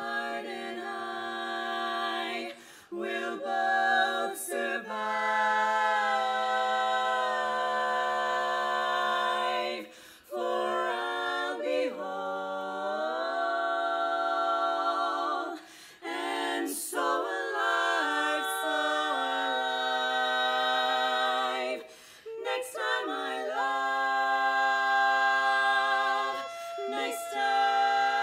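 Women's barbershop quartet singing a cappella in four-part close harmony. They hold long, ringing chords, and the phrases are broken by short gaps every few seconds.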